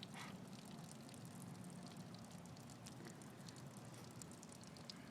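Faint trickle and drip of water running out of the hole in a waterfall bong's bottle, with scattered small droplet ticks.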